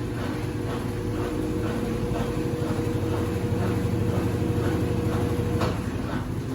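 Consul 8 kg top-loading washing machine (CWC08) running with a comforter load: motor hum and a steady whine over faint regular strokes about three a second. The whine cuts off about five and a half seconds in.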